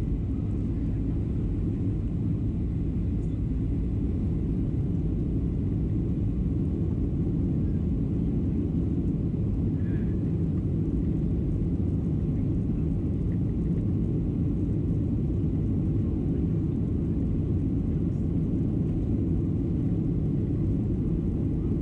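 Boeing 737-700 cabin noise in flight: a steady low rumble of the engines and airflow.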